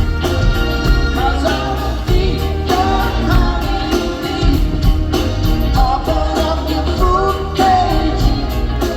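Live rock band playing with a sung lead vocal over a steady drum beat.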